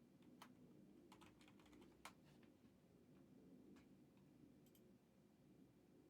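Faint computer keyboard typing: scattered key clicks, a quick run of them about a second in and the sharpest click about two seconds in, over a low steady room hum.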